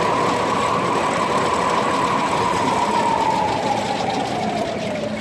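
Circular sawmill blade, belt-driven by a 1926 Keck-Gonnerman steam traction engine, running with a steady whine over dense machinery noise; over the last couple of seconds the whine slides lower in pitch as the blade slows.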